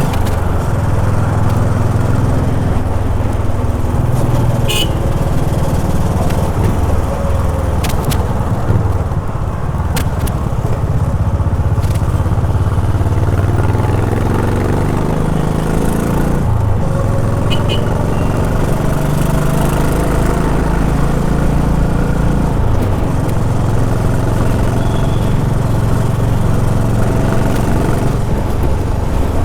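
Honda H'ness CB350's single-cylinder engine running on the move, its pitch rising and falling with the throttle and a gear change about two-thirds of the way through. A few short sharp clicks sound over it.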